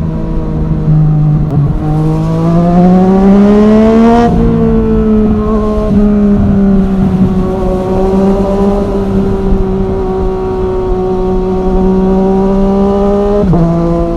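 Yamaha MT-09 three-cylinder engine through an Arrow Thunder full exhaust, pulling up through the revs for a couple of seconds before dropping sharply in pitch at an upshift. It then holds a fairly steady note, with another quick drop in pitch near the end.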